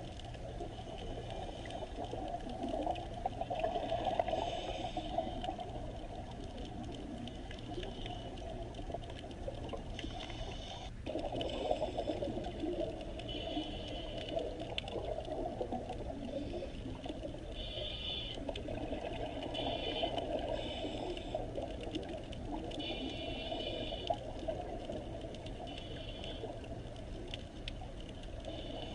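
Steady rushing of running water, with short high-pitched tones over it every second or two; the sound briefly cuts out about eleven seconds in.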